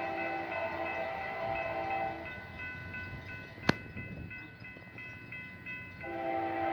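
Diesel locomotive air horn sounding a long chord, breaking off about two seconds in and starting again near the end, as at a grade crossing. A rapid, regular high ringing continues throughout, and a single sharp click comes just past the middle.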